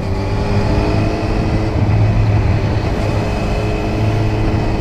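Motorcycle engine running steadily with little change in revs, a constant low drone.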